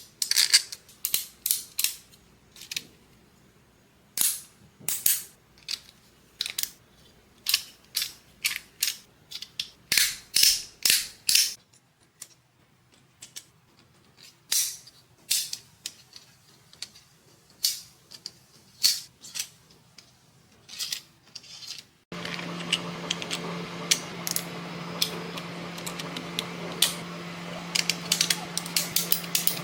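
Sharp plastic clicks from 3D-printed clicker mechanisms worked by hand, coming in quick groups of a few clicks with short pauses between. About 22 seconds in, a steady hum comes in under the clicks.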